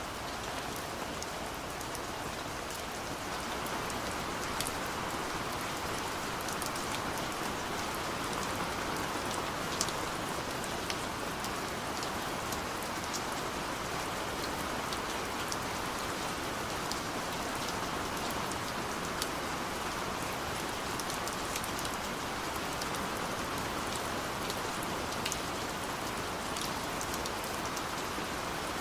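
Steady rain falling on a surface, an even hiss with scattered sharper drops, a little louder from about three seconds in.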